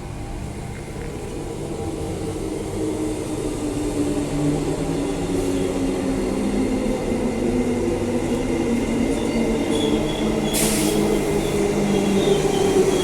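Transperth electric suburban train approaching the platform, its motor and running noise growing steadily louder, with a faint high-pitched tone joining in late and a short sharp hiss about ten and a half seconds in.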